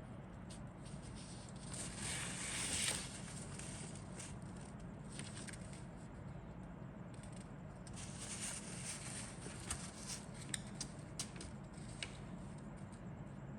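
Plastic model kit parts and packaging being handled: a rustling scrape about two seconds in and again around eight seconds, then several light sharp clicks.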